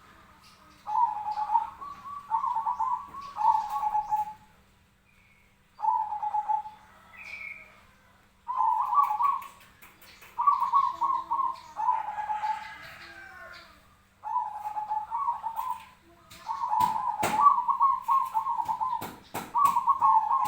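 Zebra dove (perkutut) cooing the 'tarung' (fighting) song: short phrases repeated every second or two, each a quick staccato run of notes that drops onto a lower closing note. In the last few seconds a run of sharp knocks plays alongside the cooing.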